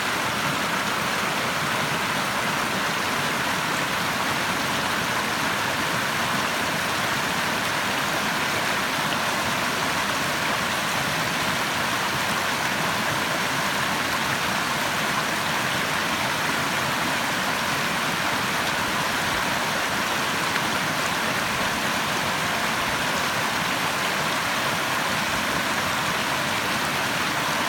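Running water of a stream rushing steadily, an even hiss without breaks or changes.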